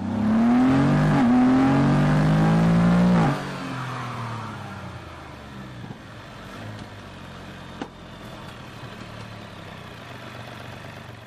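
A car engine revving hard for about three seconds, its pitch climbing with one break partway, then a sudden drop to a quieter steady rumble of running noise. A single sharp click comes near the end.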